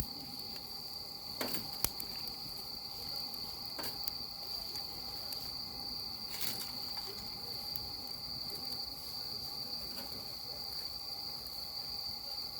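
Steady high-pitched insect chorus, a continuous trill, with a few sharp clicks scattered through it, the loudest about two seconds in.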